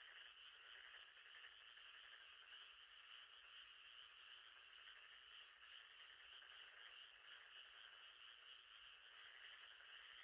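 Faint, steady night chorus of frogs calling continuously, a dense unbroken trill with no single call standing out.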